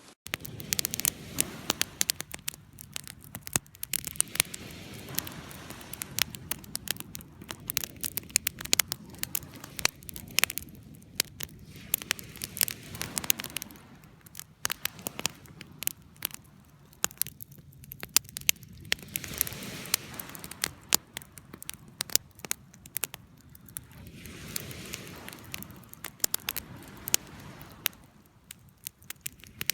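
Wood campfire burning: frequent sharp, irregular crackles and pops over a low, steady rush of flame, coming in busier and quieter spells.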